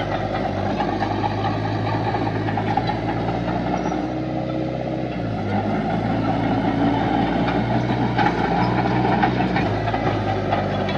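Heavy diesel engines of earthmoving machinery (bulldozer and dump trucks) running steadily, the engine note shifting and rising in load a few times.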